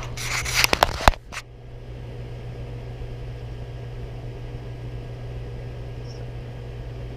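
Handling noise from the dial-indicator setup on the bench: a quick cluster of clicks and rustling in the first second and a half, the sharpest click just over a second in. After that there is only a steady low hum.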